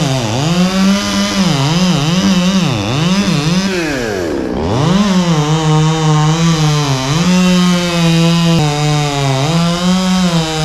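Chainsaw revving up and down repeatedly, dropping away briefly about four and a half seconds in, then held at high revs with the pitch sagging and recovering as it cuts through dense, very hard Australian pine.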